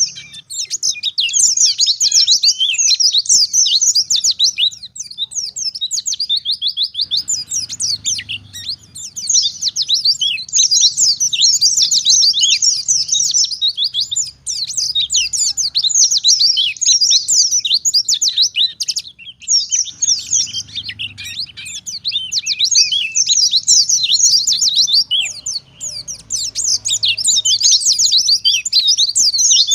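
White-eye (pleci) singing a rapid, high-pitched twittering song in long continuous runs, broken by brief pauses about seven and nineteen seconds in.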